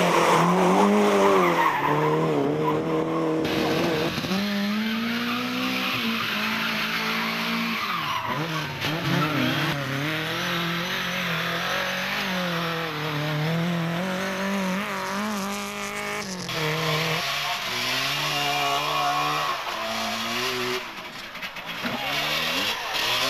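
Rally car engines revving up and down hard through the gears, with tyres skidding and squealing on loose surfaces. The sound shifts abruptly a few times as one car's run gives way to another.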